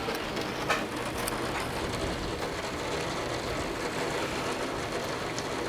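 Torrential downpour: the steady, even hiss of very heavy rain, with a few sharper drip taps.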